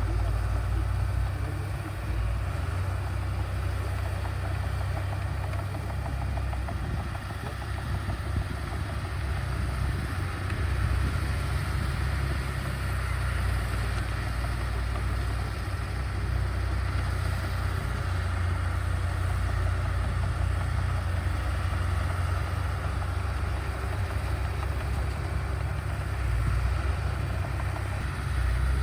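Diesel engine of heavy earthmoving equipment running steadily, a deep low rumble with a haze of mechanical noise over it.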